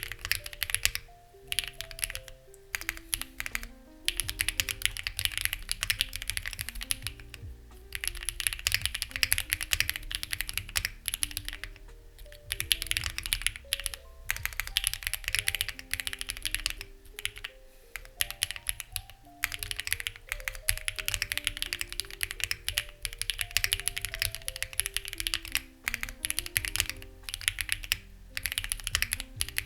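Steady fast typing on a Lucky65 v2 mechanical keyboard with stock, unlubed HMX Ziwei switches and CMK-style keycaps, in runs of rapid key clicks broken by brief pauses, over soft background music.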